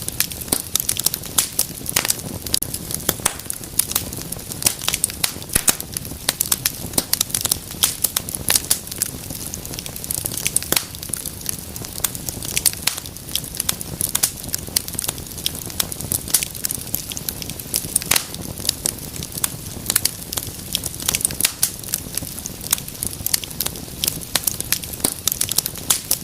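Wood fire crackling in a fireplace: dense, irregular sharp pops and snaps over a low steady hiss of the burning.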